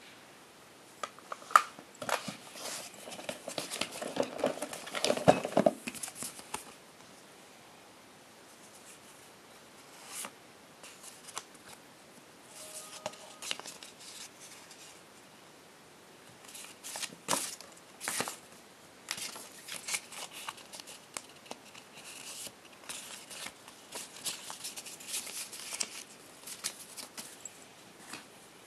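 Packaging being handled and opened by hand: intermittent plastic and cardboard rustling and crinkling, broken by sharp clicks and snaps, in bursts with short pauses between.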